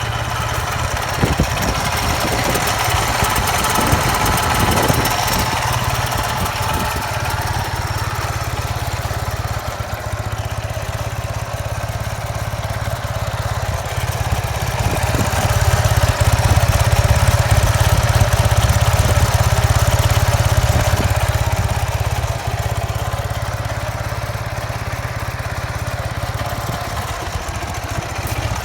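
Ural IMZ 8.103-10 motorcycle's air-cooled flat-twin engine running steadily at idle, growing a little louder for several seconds midway and then settling back. Its old timing gears are noisy, according to the owner.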